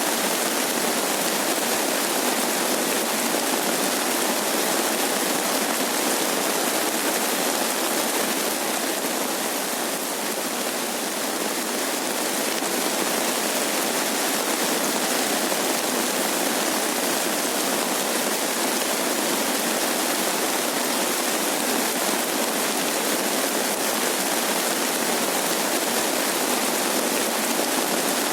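Steady rain falling, a constant even hiss of water.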